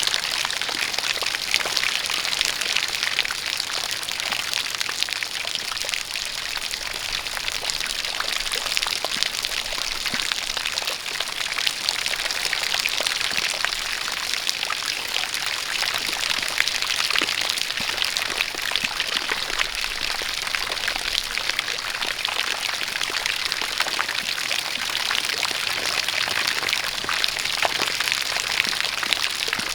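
Steady rain with many close individual drops, together with a jet of water pouring down.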